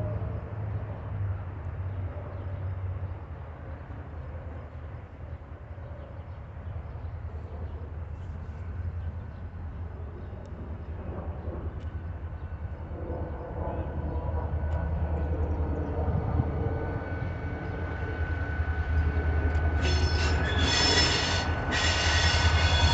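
Train on steel rails: a low diesel rumble growing louder, then high-pitched wheel squeal starting about 20 seconds in.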